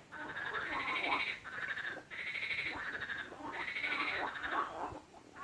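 Frogs calling in a chorus: pulsed, rasping croaks that come in bouts of about two seconds, each broken off by a brief pause.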